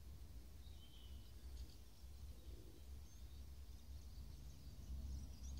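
Faint outdoor background: a steady low rumble with a few faint, short, high bird chirps.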